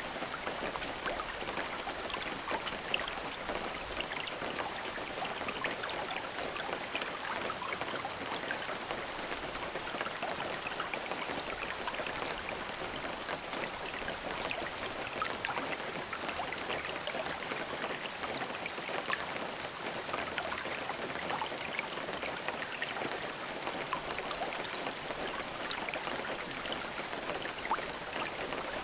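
Steady rain falling, with many small drops pattering on a surface and no thunder.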